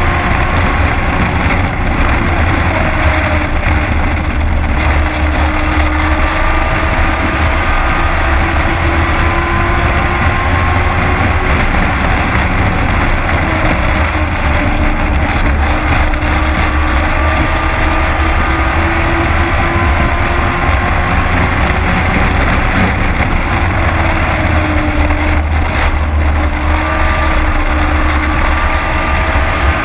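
Race truck engine heard from inside the cab at racing speed, loud and continuous with a heavy low rumble. Its pitch drops and climbs again every several seconds as the driver lifts for the corners and gets back on the throttle down the straights.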